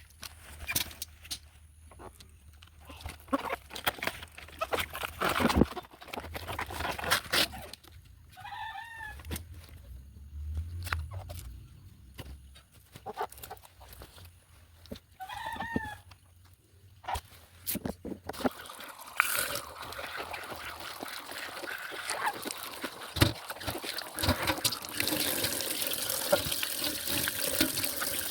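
Scattered knocks and clicks, then two identical short bird calls several seconds apart. From about two thirds of the way in, a steady trickle of running water.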